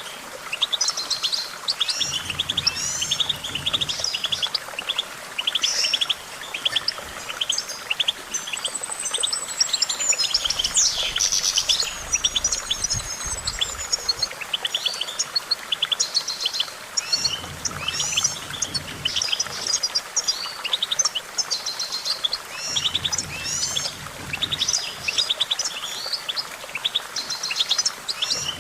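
Eurasian goldfinch singing without pause: a fast, twittering run of chirps, rapid trills and quick up-and-down notes, with a long falling whistle about eight seconds in.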